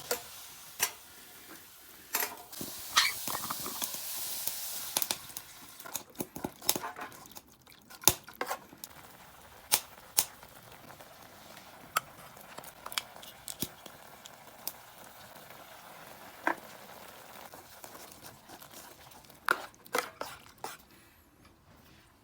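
Food sizzling in an aluminium mess tin, with a utensil clicking and knocking against the tin at irregular moments. The sizzle is loudest in the first few seconds and dies down after about five seconds, leaving scattered sharp clicks.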